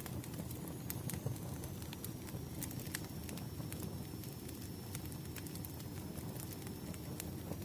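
Wood fire burning: a steady low rumble of flames with frequent, irregular sharp crackles and pops from the burning firewood.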